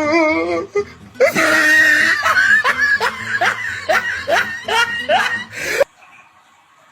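A person laughing hard in a long run of short, rising bursts, about three a second, that stops suddenly about six seconds in.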